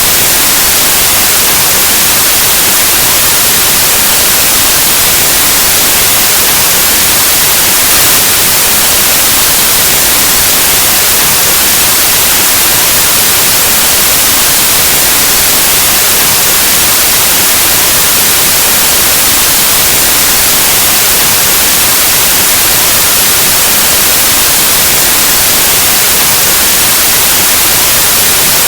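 Steady, loud white noise: an even hiss across all pitches, like static from an analog TV or radio, unchanging throughout.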